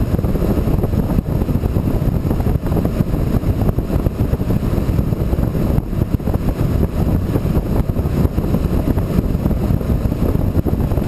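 Wind buffeting the microphone: a loud, steady low rumble that flutters rapidly.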